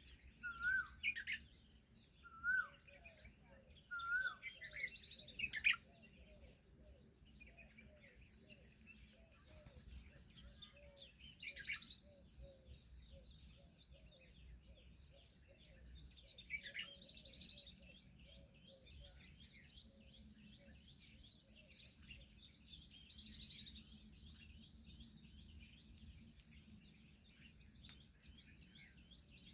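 Several birds calling and chirping: a few loud, separate hooked calls in the first six seconds, then a continuous chorus of high chirps, with a fast run of short low notes through the middle.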